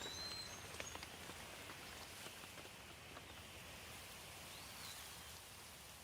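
Light rain falling steadily, with scattered drips and a few short, high bird chirps near the start and once more near the end.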